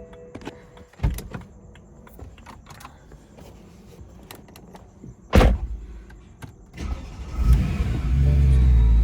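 A car's engine switched off and restarted: a quiet stretch with small clicks and one sharp knock about halfway through, then near the end the engine cranks, catches with a rev and settles into a loud, deep idle.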